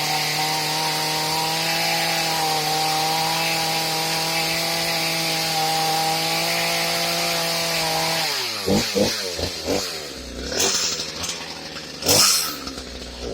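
A two-stroke chainsaw running at steady speed, then about eight seconds in it sputters, its pitch dropping in a few surges until the engine stalls: it has run out of gas. A couple of sharp knocks follow near the end.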